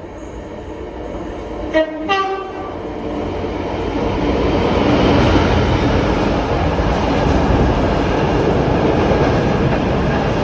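Freight train's locomotive horn sounding two short notes, a lower then a higher one, about two seconds in; then the intermodal freight train running through, its rumble rising and staying loud as the wagons pass.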